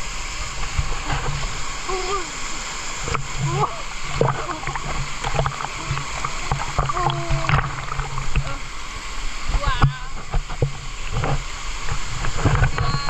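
Waterfall rushing steadily, with splashing water and short indistinct voice sounds over it.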